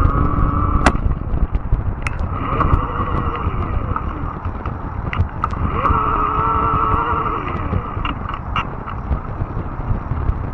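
Fat-tire electric bike being ridden over rough trail: a steady low rumble of tyres and ground, with the motor's whine rising in and fading out in a few short stretches as power comes on and off. Scattered sharp ticks and clicks through it.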